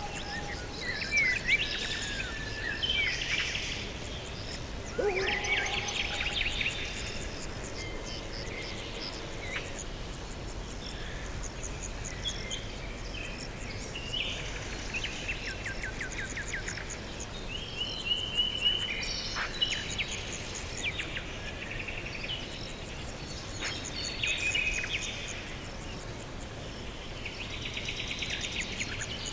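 Several songbirds singing and chirping at once, with quick trills and short calls overlapping, over a steady low background hiss.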